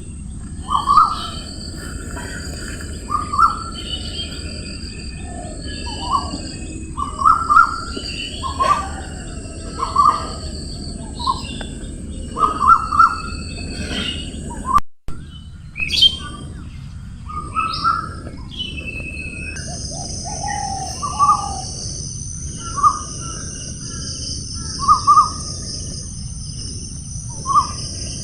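Birds calling, many short calls repeating every second or so, over a steady high insect drone. The sound drops out briefly about halfway through, and a second, higher insect drone joins shortly after.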